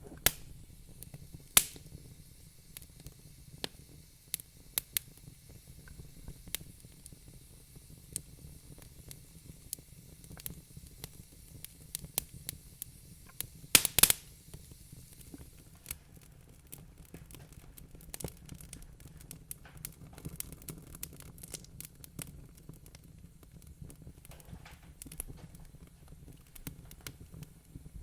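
Wood fire crackling: irregular sharp pops and snaps over a low steady rumble, with a few louder pops close together about halfway through.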